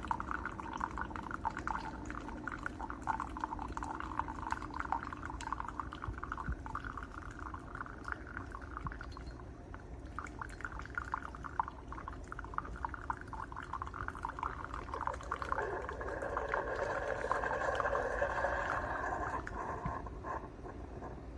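Keurig K-Supreme Plus single-serve brewer dispensing coffee, a steady pouring, splashing stream into the cup below, which swells louder for a few seconds near the end.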